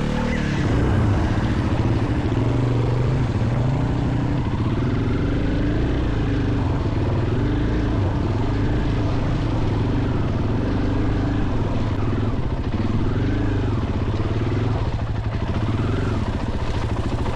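Husqvarna FE 501 enduro motorcycle's single-cylinder four-stroke engine under way off-road, its revs rising and falling over and over as the throttle is opened and rolled off.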